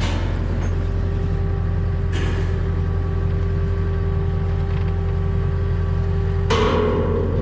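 The engine of a piece of heavy equipment runs steadily, with short surges of louder noise at the start, about two seconds in, and near the end.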